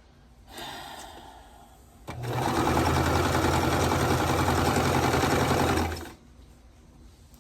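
Electric sewing machine stitching a seam at steady speed for about four seconds, starting about two seconds in and stopping suddenly. A briefer, softer sound comes about half a second in.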